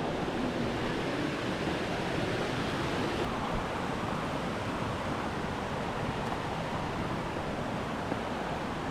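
A 155-foot waterfall swollen with spring runoff, roaring steadily.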